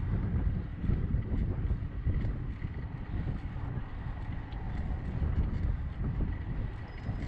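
Wind buffeting the microphone of a bicycle-mounted action camera during a ride, a heavy, uneven rumble, with a faint steady high-pitched whine underneath.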